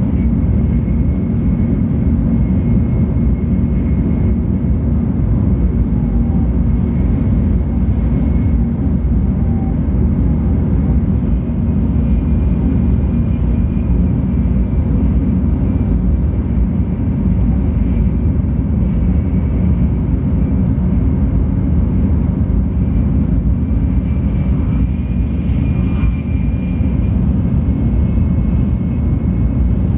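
Cabin noise inside a 700 Series Shinkansen car running steadily along the line: an even low rumble of wheels, track and air, with a faint thin high whine above it.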